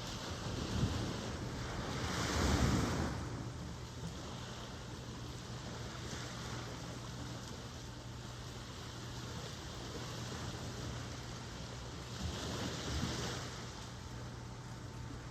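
Ocean waves breaking and washing in, a steady surf rush with two louder surges, one about two seconds in and another near the end.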